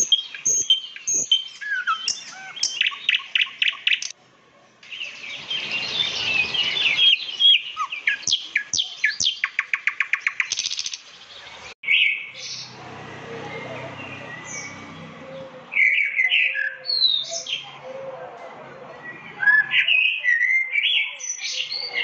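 Several different birds chirping and singing in turn, with quick whistled notes and fast trilled runs. The sound changes abruptly a few times, as one recording gives way to another.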